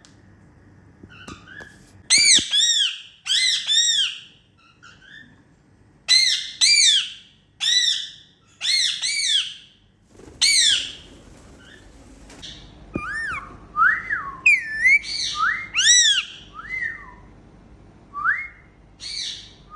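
Indian ringneck parakeets calling: a run of loud, harsh arched calls repeated about once a second, then shorter, softer rise-and-fall whistles in the second half.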